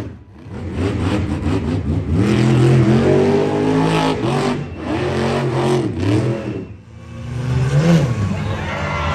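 Monster truck engine revving hard, its pitch climbing and falling again and again, with a short drop in revs about seven seconds in before it picks up again.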